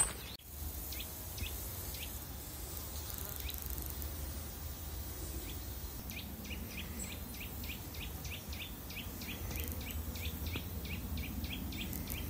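Countryside ambience: a small bird gives short high chirps, a few scattered at first and then a fast regular run of about three a second through the second half, over a steady low rumble.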